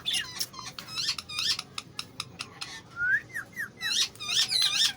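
Indian ringneck parrot chirping and whistling: a rapid run of short, high chirps, several a second, with a few swooping whistles after about three seconds.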